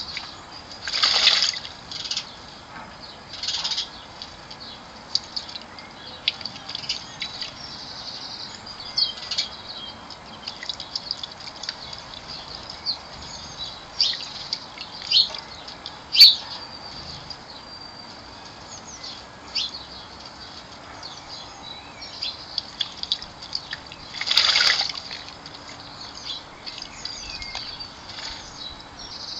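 Blackbird splashing in a bird bath in two short bursts, one about a second in and one near the end, with many short bird chirps and calls around it.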